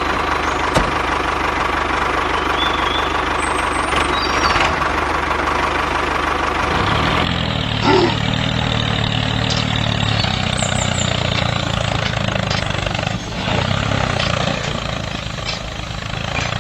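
Small electric motor of a homemade mini shredder running steadily. About seven seconds in, the sound shifts to a lower, heavier hum.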